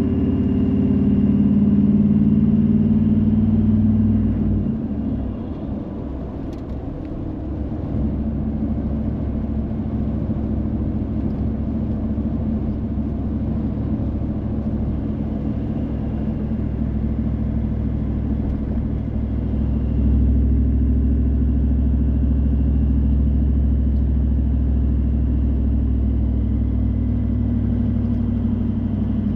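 Car engine and road noise while driving, a steady low hum. It eases off and turns rougher about five seconds in, picks back up a few seconds later, and gets a little louder from about twenty seconds.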